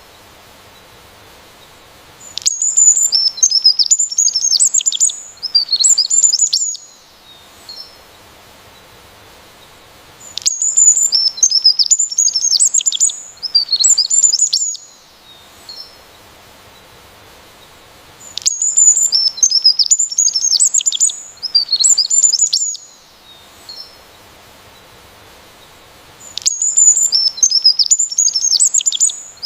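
A songbird singing bouts of rapid, high chirps and trills. Each bout lasts about four seconds and comes back about every eight seconds, four times in all, with a faint steady background hiss in the gaps.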